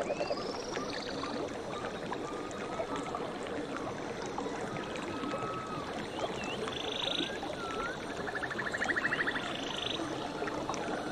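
Nature soundscape of animal calls over a steady wash: scattered short whistles and chirps, buzzy calls, and a fast pulsed trill about eight seconds in.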